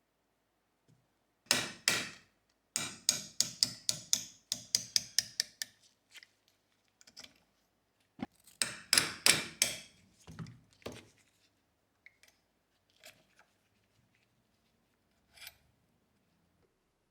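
Rapid strokes of a hand tool working on pistol parts, several a second, in two bursts with pauses between and a few single clicks near the end.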